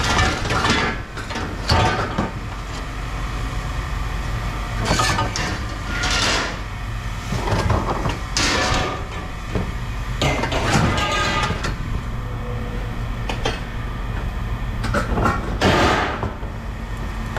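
Scrap metal parts clanking and banging as they are handled and dropped, with several loud knocks spread through, over a steady low mechanical hum.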